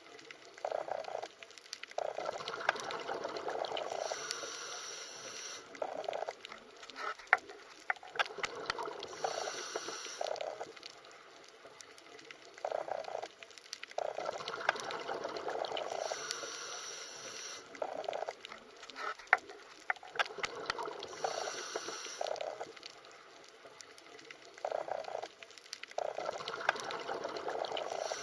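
Underwater ambience: bubbling and gurgling water in bursts that swell and fade every few seconds, with scattered sharp clicks, the same pattern recurring about every twelve seconds.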